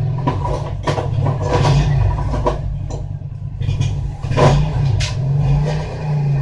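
An engine running steadily with a low hum that wavers in pitch, with several short metallic clatters and knocks over it.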